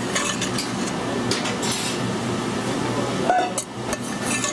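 Metal utensils clinking and scraping against a pan and a bowl as pasta is plated, over a steady low hum.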